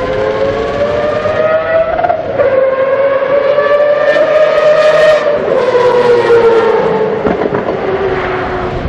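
Group C prototype race car engine at high revs: the pitch climbs, drops sharply at a gear change about two seconds in, climbs again, then sinks steadily over the last few seconds.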